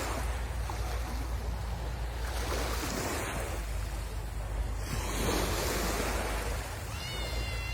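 Sea waves washing onto the shore in a steady wash that swells and eases every few seconds, with wind rumbling on the microphone. A brief high whistle-like tone sounds near the end.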